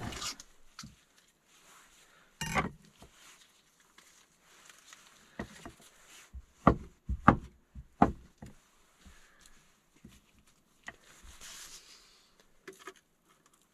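Knocks and clatter of utensils and food containers being handled while preparing food. There is one knock a couple of seconds in, then three sharper knocks in quick succession about seven to eight seconds in, with light clicks and rustling between.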